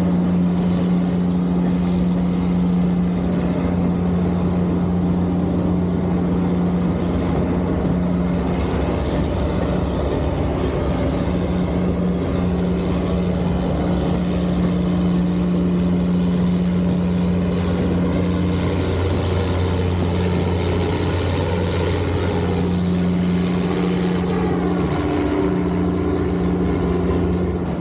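An engine running steadily, a continuous low drone with a steady hum that dips slightly a few times.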